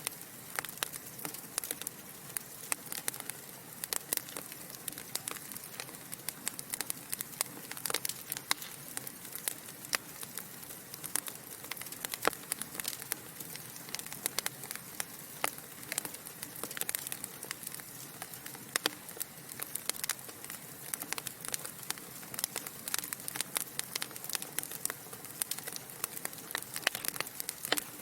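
Wood logs burning in a fireplace, crackling with frequent irregular sharp pops over a soft steady hiss.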